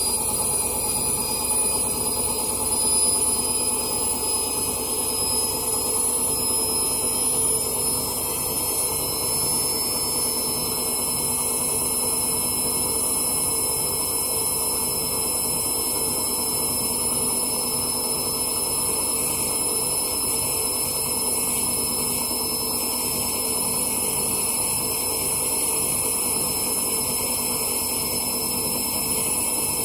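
Candy washing machine in a spin, its motor giving a steady whine with high tones that creep slowly upward in pitch.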